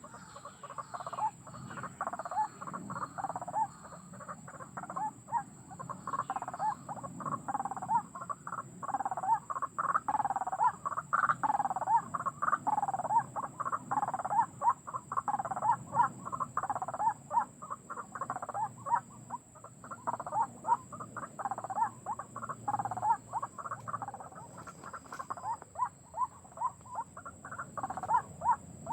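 White-breasted waterhen calling: a long unbroken run of repeated harsh croaking notes that come faster near the end.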